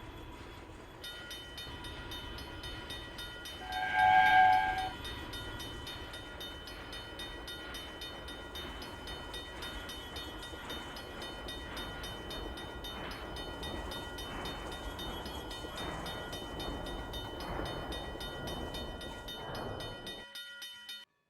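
Train running with a steady rumble and whine, and one horn blast about four seconds in, lasting about a second and the loudest sound. The sound cuts off suddenly near the end.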